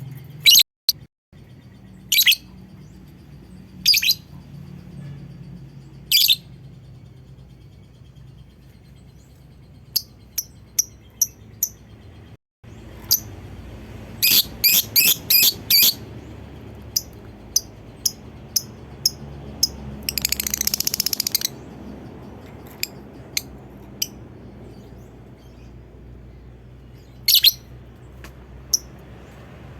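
Lovebird giving short, sharp, high-pitched calls at irregular intervals, with a quick run of calls about halfway through and a longer rapid chattering trill a few seconds later, over a faint low hum.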